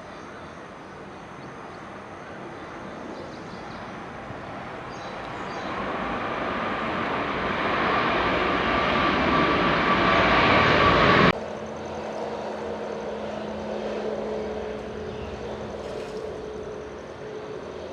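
Boeing 737 airliner's jet engines growing steadily louder as the plane comes in close on landing, with a faint steady whine over the noise, then cut off abruptly about eleven seconds in. After the cut, a quieter steady jet engine hum with a low drone.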